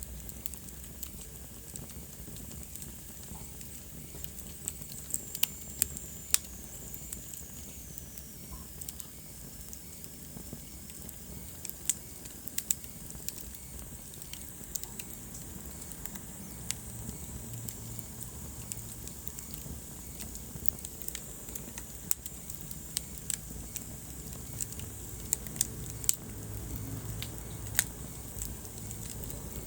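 Wood fire burning in a fireplace: irregular sharp crackles and pops over a low steady rumble of the flames. A faint high whistle slides down in pitch about six seconds in.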